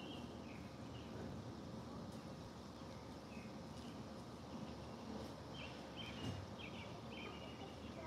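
Outdoor ambience: a steady low background hum with a few short, high bird chirps, most of them bunched together in the second half.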